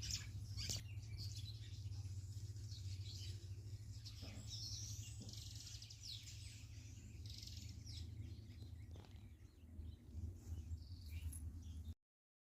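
Wild birds chirping and calling, many short high notes from several birds, over a steady low rumble. The sound cuts off abruptly shortly before the end.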